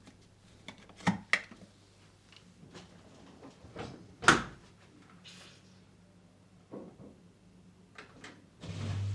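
A few scattered knocks and clicks of household objects being handled, the loudest about four seconds in. Near the end a small appliance switches on with a steady low hum.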